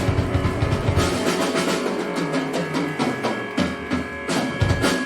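Live rock band with drum kit and guitar. About a second in the low end drops out and the drums carry on with a run of separate hits.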